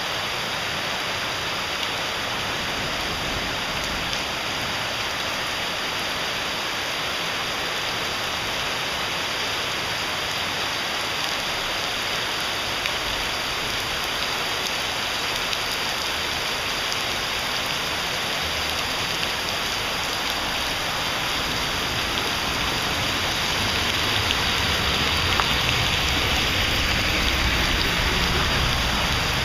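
Heavy rain pouring down on a paved street, foliage and roof tiles: a steady hiss that grows louder over the last several seconds.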